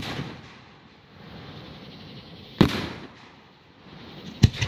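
Aerial fireworks shells going off: a bang right at the start, a loud bang about two and a half seconds in that fades out slowly, and two quick bangs near the end.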